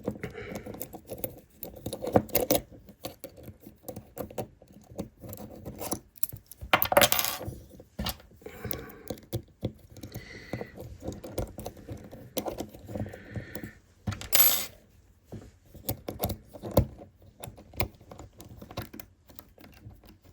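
Small metal parts, screws and hand tools clicking and clinking while screws are fitted into a 3D printer's extruder assembly, with louder rattles about seven seconds in and again near fifteen seconds.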